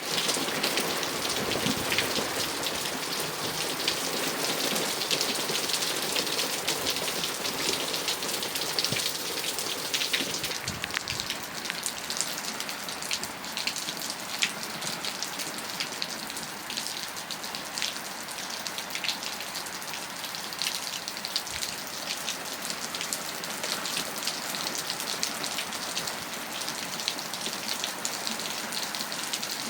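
Steady rain falling, a dense hiss with many separate drops ticking on a surface, a little lighter in the second half.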